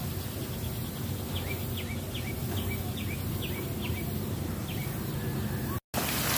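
A small bird calling a quick run of about eight short, falling chirps, roughly two a second, over a steady low outdoor rumble; the sound drops out for an instant near the end.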